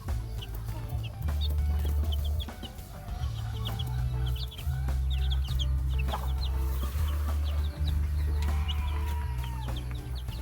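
Heritage chickens clucking, with many short high-pitched peeps throughout, over a steady low rumble.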